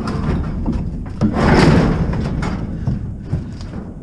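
A heavy scrap appliance being shoved onto a truck's metal bed: a long scrape about a second and a half in, among repeated knocks and clunks of metal.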